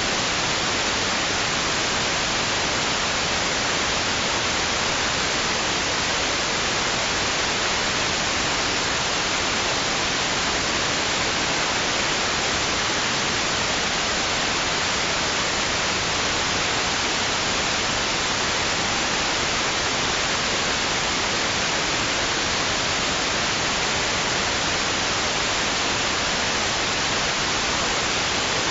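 White noise: a steady, unchanging hiss, brighter in the treble, with no swells or breaks.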